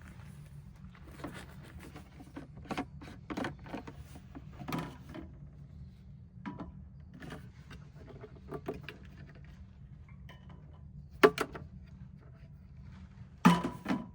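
Scattered clicks, knocks and rustles of things being handled and set down, with two louder thumps about eleven and thirteen and a half seconds in, over a faint low hum.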